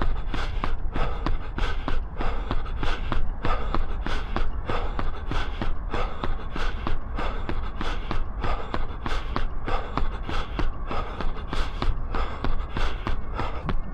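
A runner's footfalls at a steady cadence of about three steps a second, with hard breathing from running at threshold pace, over a steady low rumble.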